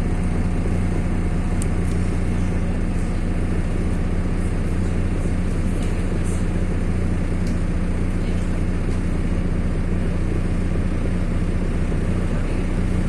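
MAZ-103.060 city bus's engine running steadily, a low even drone with road noise, heard from inside the passenger cabin.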